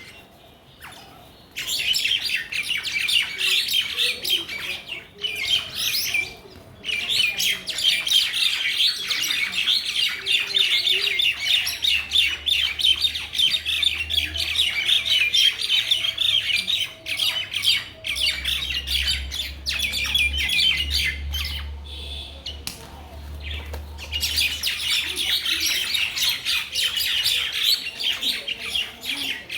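Mynas (shalik) chattering and squawking in a dense, rapid stream of harsh calls, with a few short lulls. A low rumble runs under the calls through the middle stretch.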